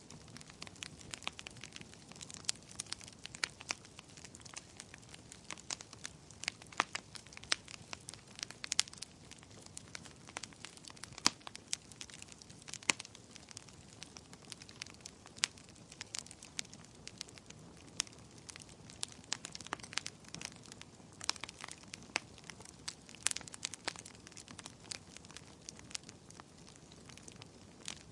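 Wood fire crackling, with frequent irregular sharp pops and snaps over a faint steady hiss.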